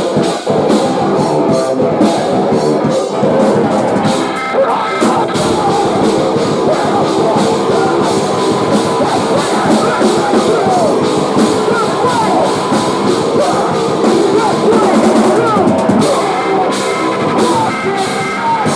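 Post-hardcore band playing live at full volume: distorted guitars over a pounding drum kit with steady cymbal strokes.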